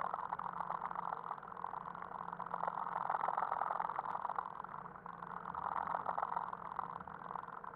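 Rover Metro GTi's 1.4-litre four-cylinder engine idling steadily, heard from inside the car's cabin, its level swelling and easing slightly.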